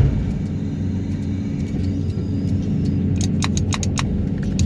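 Excavator's diesel engine and hydraulics running steadily with a low rumble and a held hum, with a few sharp clicks about three to four seconds in.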